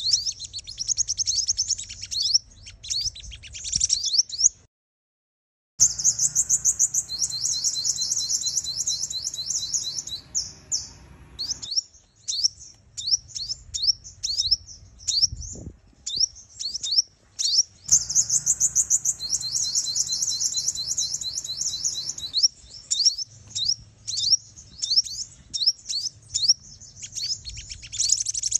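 Female sunbird calls played from a lure recording: rapid, high-pitched chirps and trills in dense runs, the kind of calls used to excite male sunbirds into coming to a trap. The sound cuts out completely for about a second near the five-second mark, then the chirping resumes.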